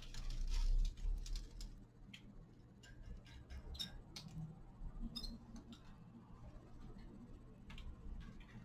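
Small cage finches feeding: irregular dry clicks and ticks of seeds being pecked and husks cracked, with a dull thump in the first second and a couple of faint short chirps.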